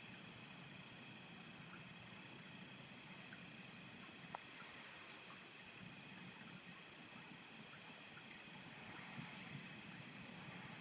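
Faint, steady chorus of insects, with steady high trilling and quiet regular chirps; no thunder is heard.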